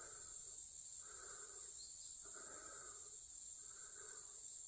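Steady high-pitched chorus of autumn insects, such as crickets, in a forest. A softer, lower sound repeats about once a second alongside it.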